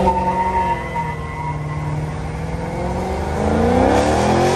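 Car engine revving hard for a burnout: it climbs quickly as it starts, holds steady at high revs, then climbs again near the end.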